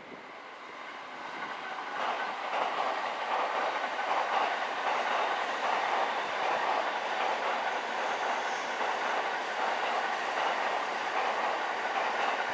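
Train passing on the tracks, growing louder over the first two seconds and then running steadily.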